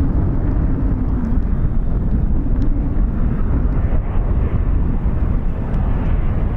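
Aircraft engine noise, a steady rumble with a faint wavering drone in the first couple of seconds, mixed with wind buffeting the microphone.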